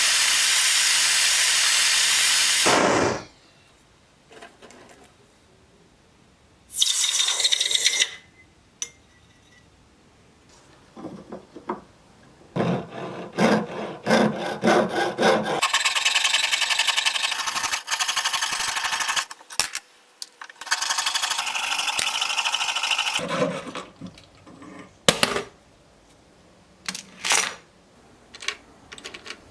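A small power tool running in several bursts of a few seconds each, stopping and starting, with a few sharp clicks near the end.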